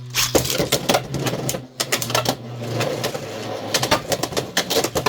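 Beyblade X tops Golemrock and Lightning L-Drago spinning and colliding in a plastic stadium: rapid sharp clacks of hits over a low spinning hum that fades out about halfway through.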